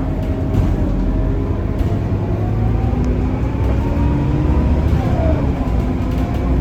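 Scania K230UB city bus engine running under way, its note climbing slowly through the second half as the bus accelerates.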